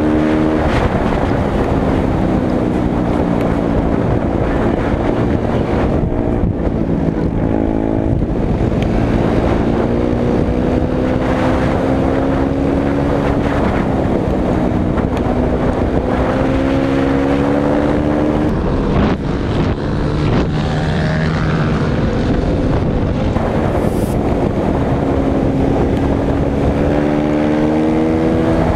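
Off-road vehicle engine running at speed, its pitch climbing and dropping several times as the rider accelerates and shifts gears, with wind noise on the microphone.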